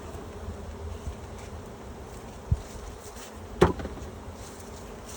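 Honeybees buzzing around an open hive, a steady droning hum. Two sharp knocks cut through it, the second and louder about a second after the first.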